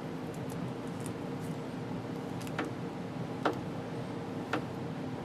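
Three light clicks about a second apart, over a steady hum, from small parts and tools being handled during wiring work.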